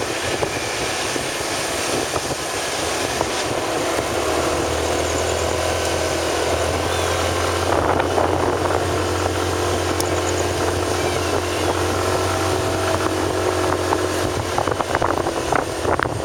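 Riding noise from a motorcycle at speed: engine and wind on the microphone. About four seconds in, a low steady drone comes in and stops again about ten seconds later.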